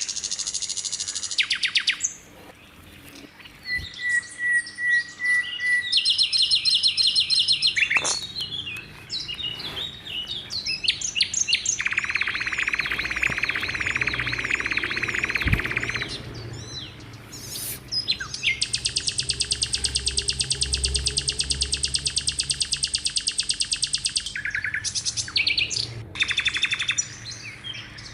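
Lark song: a long, varied outpouring of rapid chattering phrases and whistled notes, with two extended buzzy trills lasting about four and six seconds in the middle and later part.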